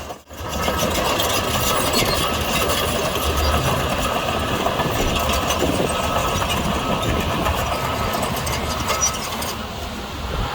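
Diesel engine of heavy earthmoving machinery running steadily, with a brief dropout just after the start.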